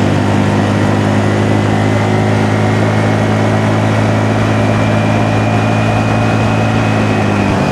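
Honda Navi's 109 cc single-cylinder engine running at a steady cruise, its pitch holding level, under a constant rush of wind and road noise.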